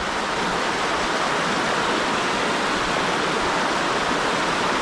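Fast river water rushing steadily over rapids, an even wash of water noise without change.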